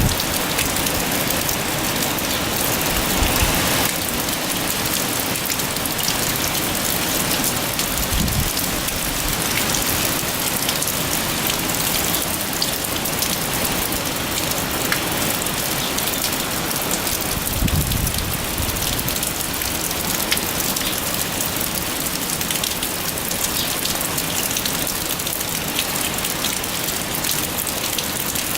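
Heavy typhoon rain pouring down steadily, with a few brief low rumbles rising out of it.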